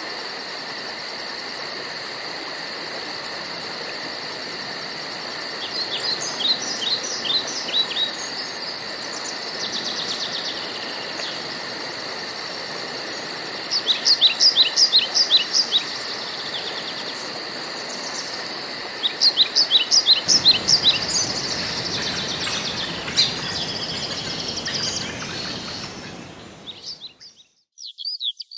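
Woodland ambience: a songbird sings three bursts of rapid, downward-sweeping notes over a steady high insect trill and buzzing. The whole sound fades out near the end, and a different bird's chirping starts just after.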